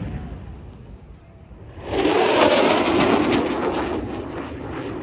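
Aircraft engines of a formation aerobatic team passing: the sound fades over the first second, then a loud pass comes in suddenly about two seconds in and slowly dies away.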